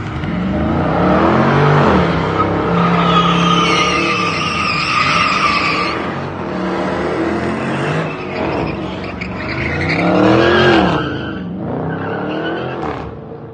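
Car engine revving up and down hard with tires squealing on the pavement, as in a burnout. The squeal holds steadiest in the middle, and the revs climb and fall again several times before the sound fades near the end.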